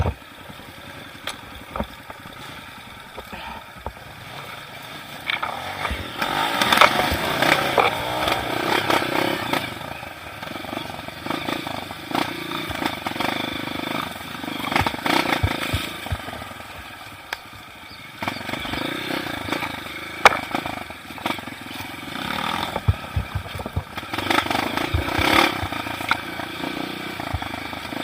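Dirt bike engine revving in repeated surges that rise and fall, with scattered clattering knocks.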